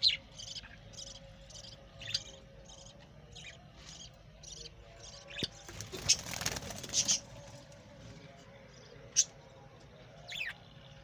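Budgerigars chirping: a run of short, high chirps about two a second, with a louder burst of calls about six seconds in and a few sharper single chirps near the end.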